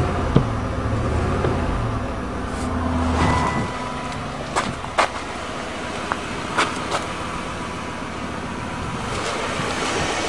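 The 4.6-litre V8 of a 1997 Lincoln Continental idling with a pulsing miss: one cylinder is misfiring. A few sharp clicks sound over it around the middle.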